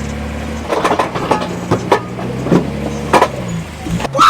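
A car engine running with a steady low drone, with several knocks and clicks over it.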